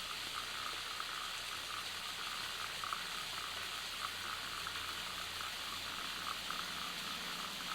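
Waterfall and cascade: a steady rush of falling water with small irregular splashy ticks.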